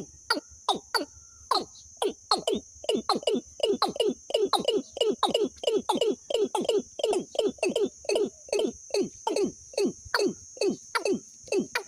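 A bird calling in a fast series of short downward-sweeping notes, about three to four a second with a few brief pauses, over a steady high-pitched insect drone.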